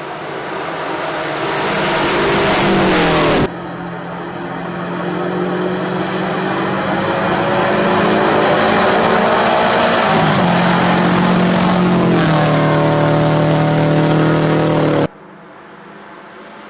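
Rally car engines at full throttle, in clips cut together. A rising engine note cuts off suddenly about three and a half seconds in. Another car follows, loud and building, its pitch dropping twice. Near the end there is a sudden cut to a quieter engine sound.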